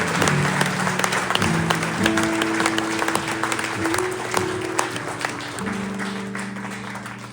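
Audience applauding over the song's closing chords, held on instruments and dying away. The clapping thins out near the end.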